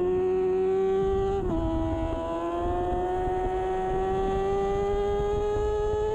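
2013 Kawasaki Ninja 636's inline-four engine at racing revs under full throttle. The pitch climbs, drops sharply about one and a half seconds in on an upshift, then climbs steadily again through the next gear.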